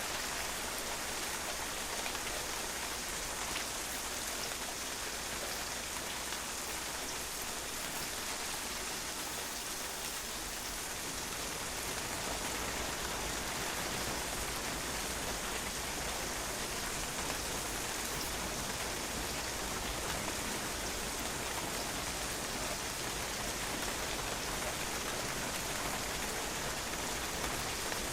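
Steady rain falling on a patio, drops pattering and splashing on the hard surface in an even hiss with countless small ticks.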